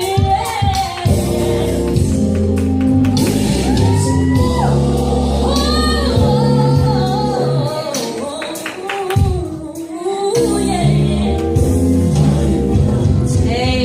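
Gospel music: voices singing over a steady instrumental bass line.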